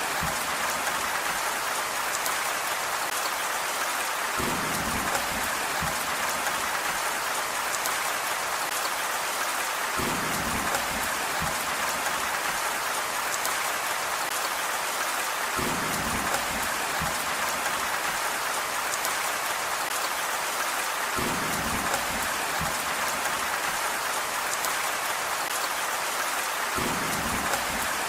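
Steady rain falling, an even hiss, with a brief low rumble recurring about every five to six seconds.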